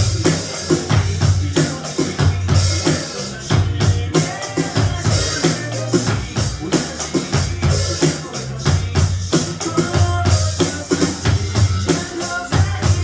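Drum kit played along with the recorded backing track of a slow pop-rock song: a steady beat of bass drum, snare and cymbals under bass and guitar.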